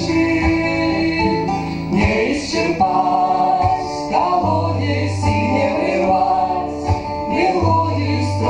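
A song with guitar accompaniment, voices singing a melody with no recognisable words.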